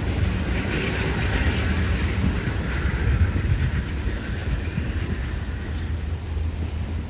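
Amtrak Southwest Chief passenger train rolling past on the rails, a steady loud rumble of wheels on track with some hiss mixed in.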